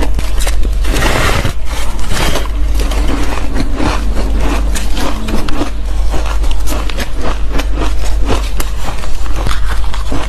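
Close-miked bites into squeaky, fluffy ice: a dense run of sharp crunches and crackles, with a louder burst of crunching about a second in.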